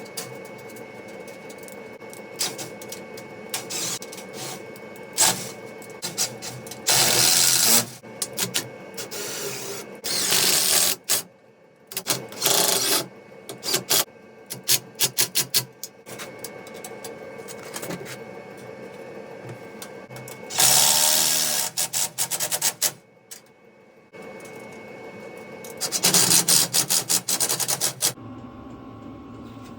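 Impact driver running in short bursts, hammering rapidly as it winds nuts onto bolts, with clinks and taps of small metal parts between the bursts.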